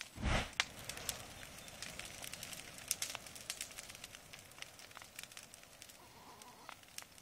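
Bonfire crackling and popping, with many sharp irregular snaps over a steady hiss. A short, loud, low burst of noise comes just after the start.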